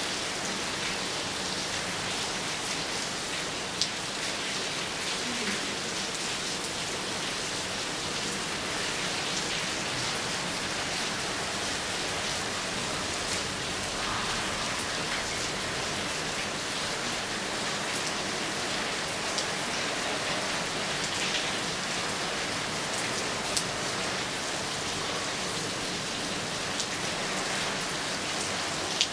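Steady heavy rain falling, an even hiss, with a few louder single drop strikes now and then.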